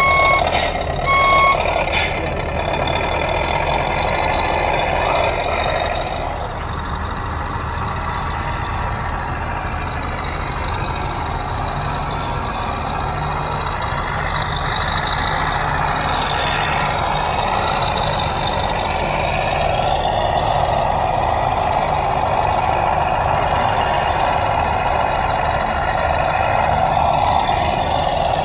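Truck reversing alarm sounding two short beeps in the first two seconds, over a truck engine sound running steadily.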